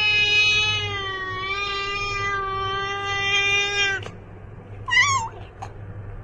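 A domestic cat giving one long, drawn-out yowl, nearly level in pitch, that stops about four seconds in, followed a second later by a short, higher meow with a wavering pitch.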